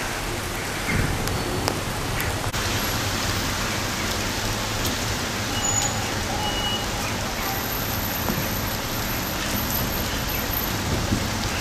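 Steady rain falling, with cars driving past on a wet road.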